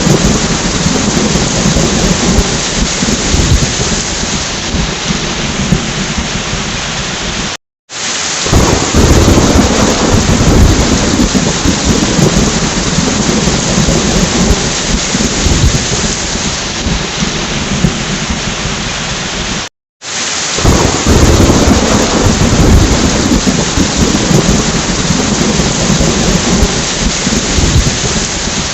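Heavy rain falling steadily with deep rolling thunder. The sound cuts out completely twice for a moment, about 8 and 20 seconds in, and each time comes back with a swell of thunder rumble.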